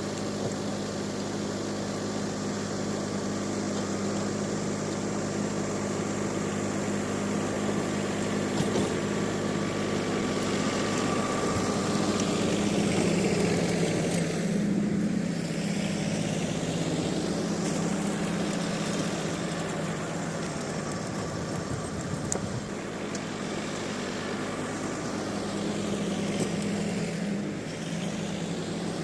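Tractor engine running steadily, working a rice paddy, a little louder around the middle.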